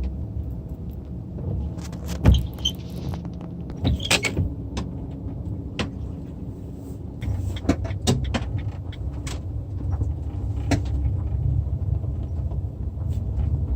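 Motor vehicle rumble, low and steady, with scattered sharp clicks and crackles.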